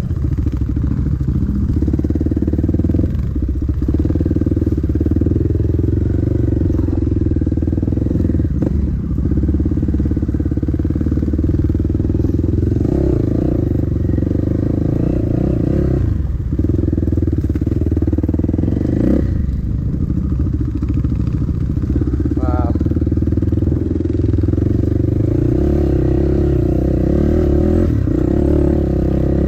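Dirt bike engine running hard on a trail, its revs dropping briefly every few seconds as the throttle is rolled off, then picking up again.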